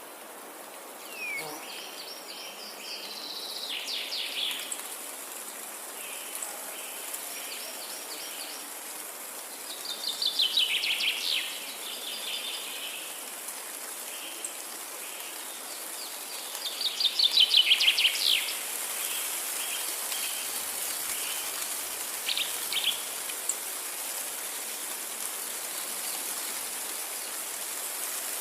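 Forest birdsong: a songbird repeats a short song of rapid notes falling in pitch about every seven seconds, with fainter series of short chirps from other birds between the songs. A steady high hiss of insects runs underneath.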